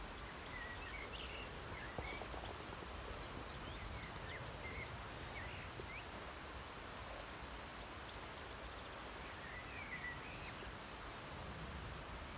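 Faint outdoor field ambience: a steady, even background hiss with a scattering of short bird chirps.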